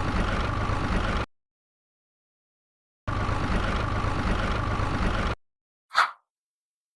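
Engine running in two stretches, the first about a second and a half and the second about two seconds, each starting and cutting off abruptly, followed by a short whoosh about six seconds in.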